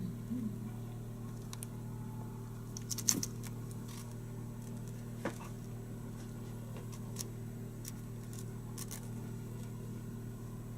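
A steady low hum with scattered light clicks and taps, a small cluster of them about three seconds in.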